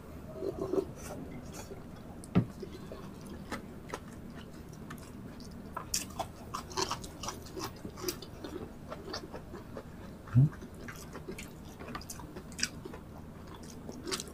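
Close-miked chewing and wet lip-smacking of people eating tocino and rice, many short clicks and smacks. A dull low thump comes about two seconds in and a louder one about ten seconds in.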